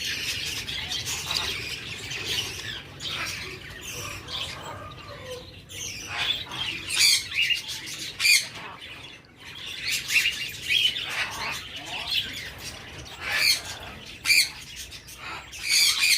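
Baby budgerigar chicks squawking over and over with begging calls, in short, irregular bursts. The loudest calls come every second or two in the second half.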